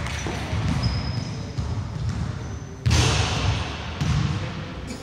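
Basketball bouncing on a wooden indoor court in repeated thuds, with a few short high squeaks. A sudden louder sound comes about three seconds in.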